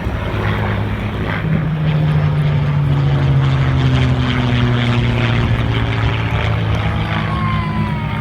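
F4U Corsair and P-51 Mustang warbirds flying in formation: the drone of their big piston engines, a Pratt & Whitney R-2800 radial and a Packard Merlin V-12, slowly falling in pitch.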